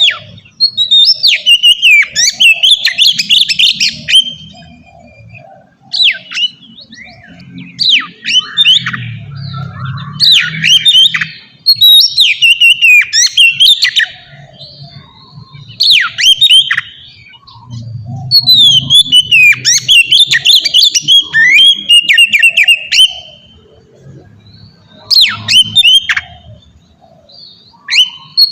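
Oriental magpie-robin (kacer) singing a full, free-flowing song: bouts of rapid, varied whistled and scratchy phrases, each a second or a few seconds long, with short pauses between them.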